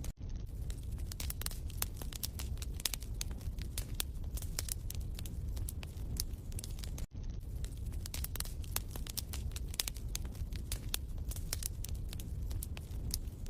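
Wood fire crackling in a fireplace: a steady low rumble under many sharp, irregular pops. The sound drops out for an instant near the start and again about halfway through.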